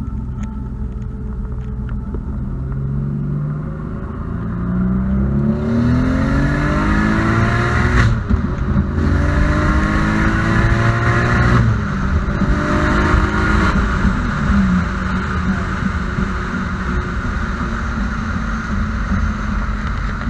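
Big single-turbo Audi engine accelerating hard, its pitch climbing through the gears with two quick shifts, about 8 and 12 seconds in. It then eases off and runs more steadily, with a constant rushing hiss.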